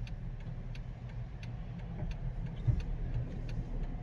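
Car road noise heard from inside the cabin while driving: a steady low rumble with scattered light ticks, and a single thump from a bump in the road about two and a half seconds in.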